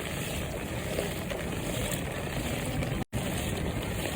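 Steady rumble of vehicles moving along a waterlogged road after heavy rain, with a brief total dropout about three seconds in.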